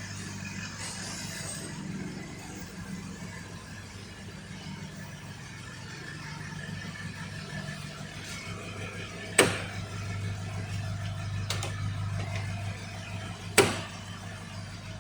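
Toyota Land Cruiser 4.5-litre engine idling steadily, with a low even hum. Two sharp knocks come partway through and near the end, the second about four seconds after the first.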